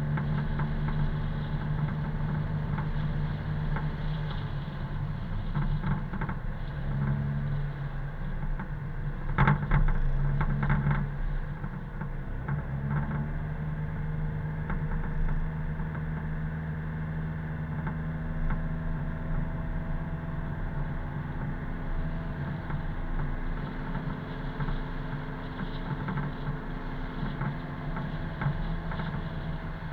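A car's engine running steadily at road speed, with tyre and road noise. A few sharp knocks come about nine to eleven seconds in, the loudest part.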